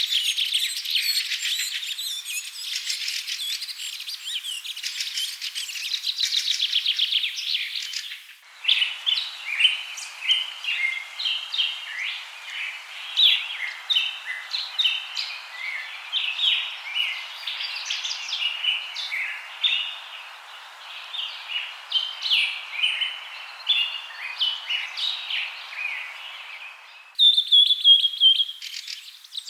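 Several birds chirping and trilling in a dense chorus, then changing abruptly about eight seconds in to scattered short chirps over a soft hiss, and changing abruptly again to dense chirping shortly before the end.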